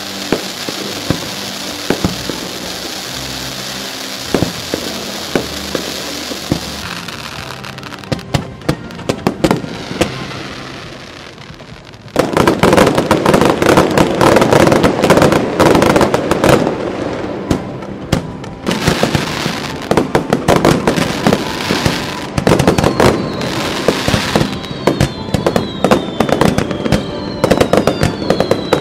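Fireworks display: scattered bursts over music at first, then from about twelve seconds in a dense, rapid barrage of loud bursts. Several falling whistles sound among the bursts near the end.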